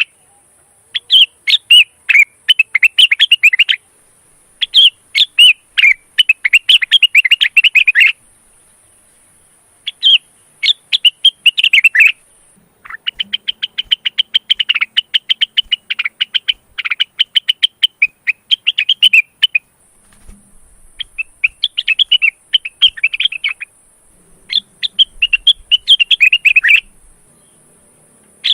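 Male cucak wilis (rengganis) leafbird in breeding condition singing: six runs of rapid, chattering chirps separated by short pauses, the longest about seven seconds.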